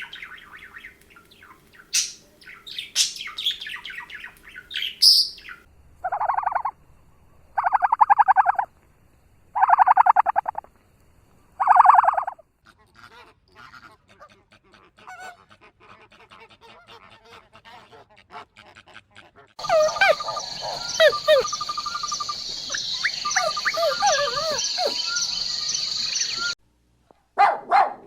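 Bird calls in several short clips: chirps first, then four harsh honking calls about two seconds apart, then more chirping over a steady high-pitched hiss that cuts off suddenly near the end.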